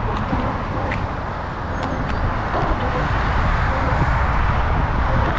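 Wind rushing and buffeting over the microphone while riding a bicycle, a steady loud rumble that swells slightly toward the end, with a few faint clicks.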